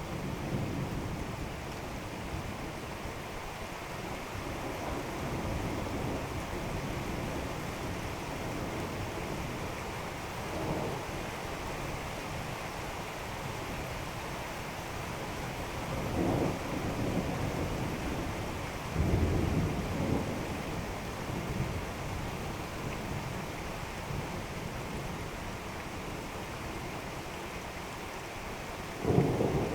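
Thunderstorm: steady rain falling with thunder rumbling several times, the loudest rumble about two-thirds of the way through and another beginning near the end.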